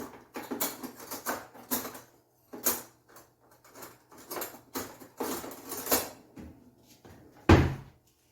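Kitchen containers and bottles being handled on a counter: irregular clicks, knocks and clatter, with one heavy thud about seven and a half seconds in.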